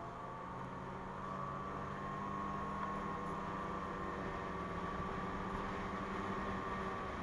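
2017 Ski-Doo MXZ's 600 carbureted two-stroke twin running at a steady cruise on the trail, its pitch and level rising a little about two seconds in and then holding.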